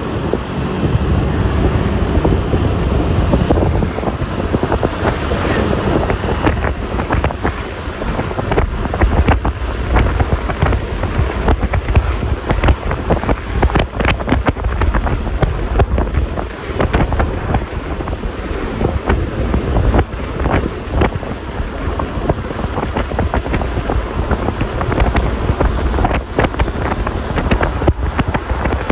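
Wind rushing over and buffeting the phone microphone while riding a Yamaha Lexi LX 155 S scooter, with a continuous low rumble of road noise and constant brief gusty crackles.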